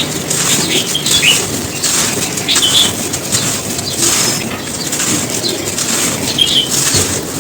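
Dry, gritty crunchy material being crumbled and crushed, in a continuous run of irregular crunches.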